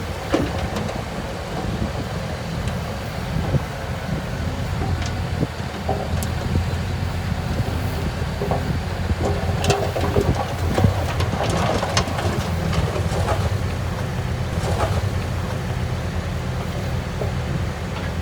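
Heavy diesel earthmoving machinery running steadily under load, with a burst of metallic clanks and knocks about ten to thirteen seconds in.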